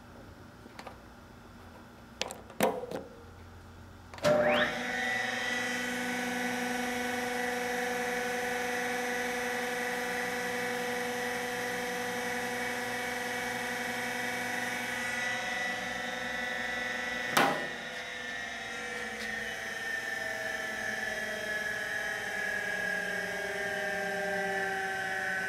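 Harig 618 surface grinder's spindle starting after a few switch clicks: the wheel spins up with a rising whine and runs at a steady whine. After a click well past halfway, the whine slowly falls in pitch as the wheel coasts down.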